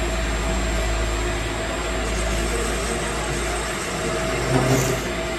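Machine motor running steadily, with a deep hum underneath that fades out about four seconds in, and a brief louder noise near the end.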